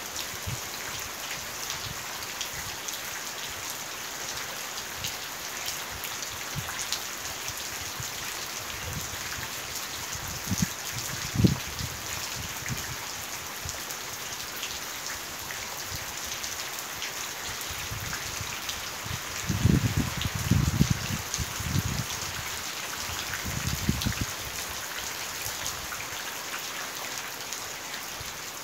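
Steady rain pattering on wet ground and puddles. A few low thumps stand out above it, once partway through and in a cluster about two-thirds of the way in.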